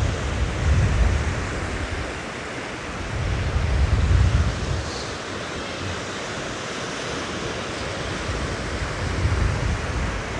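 Sea surf washing onto a sandy beach, a steady hiss, with strong wind buffeting the microphone in low rumbling gusts about a second in, around the middle and near the end.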